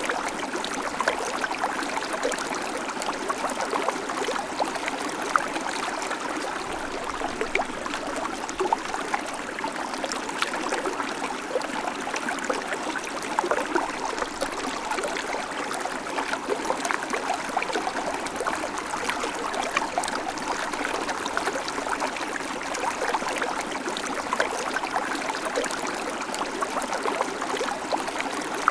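Babbling creek: shallow water running steadily over stones, with a dense, irregular splashing and gurgling.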